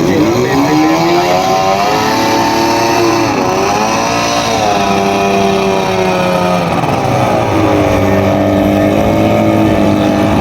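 Racing powerboat's outboard engine being revved during a pre-race warm-up. Its pitch climbs, dips sharply about three and a half seconds in, climbs again, then sags and settles into a steady run for the last few seconds.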